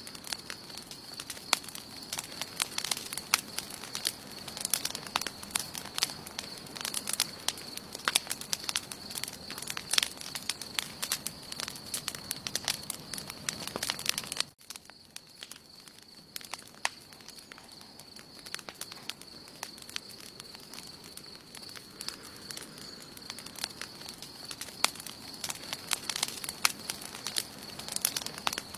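Wood campfire burning, with frequent sharp crackles and pops over a soft hiss, and a thin steady high-pitched tone underneath. About halfway through the sound drops out for an instant, and the crackling is sparser for a while afterwards.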